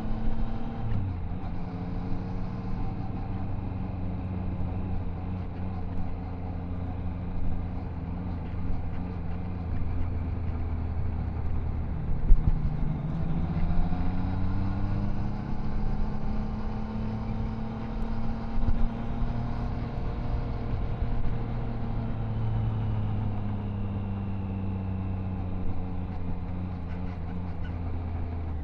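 Triumph Tiger Sport 660's inline three-cylinder engine and exhaust under way, its pitch dropping about a second in, climbing again around the middle, then easing down through the later part as the rider rolls the throttle on and off. Wind and road noise run underneath.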